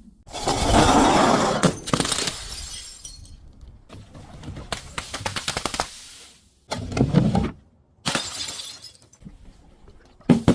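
Glass being crushed and shattering: a loud burst of crunching and crackling lasting about two seconds near the start, then scattered crackles, a second shorter crunch about two-thirds of the way through, and a few sharp cracks near the end.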